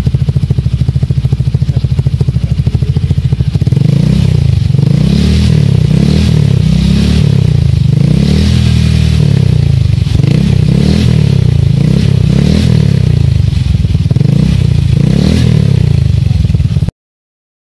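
Yamaha Xeon GT125 scooter's single-cylinder four-stroke engine through an aftermarket racing exhaust, idling for a few seconds, then revved repeatedly, about one blip every second and a half. The sound cuts off suddenly near the end.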